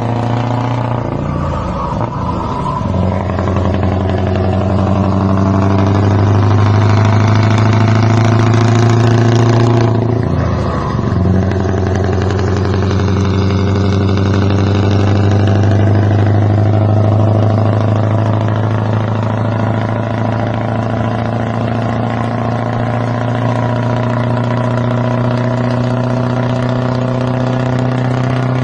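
Scania R 500's V8 diesel engine running with a steady, loud note; the pitch briefly dips and climbs back about two seconds in and again, more markedly, about ten seconds in.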